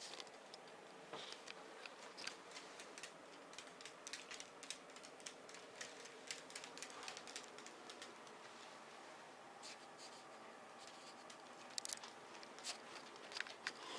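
Faint, irregular clicking and tapping in a quiet room, with a few sharper clicks near the end.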